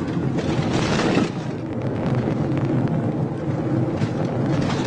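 Police patrol car's engine and road noise at high speed during a pursuit, a steady hum with a louder rush of wind about a second in.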